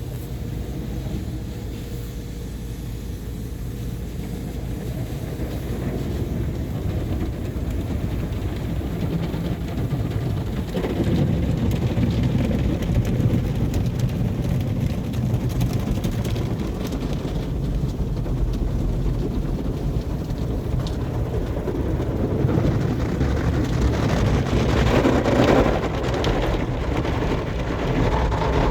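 Automatic car wash machinery running: a steady low rumble with a haze of water and spray noise, growing louder about eleven seconds in and louder and hissier again near the end.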